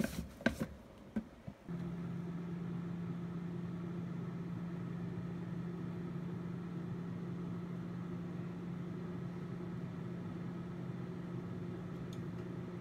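A few clicks and knocks, then about two seconds in an air fryer switches on and its fan motor runs with a steady, even hum.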